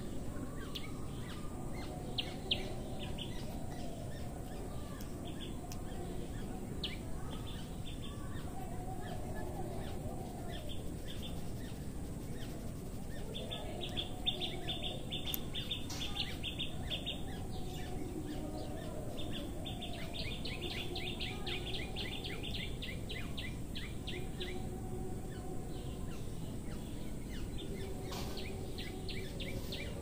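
Outdoor birds calling over a steady background hum, with two long, fast trills of rapidly repeated high notes, one about halfway through and another a few seconds later.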